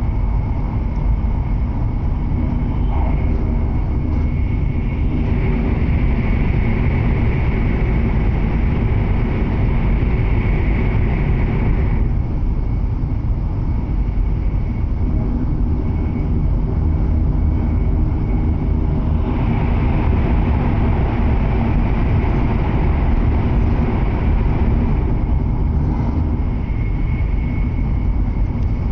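Running noise of a W7 series Shinkansen at speed, heard inside a passenger car: a steady low rumble with a higher hiss that grows and fades several times.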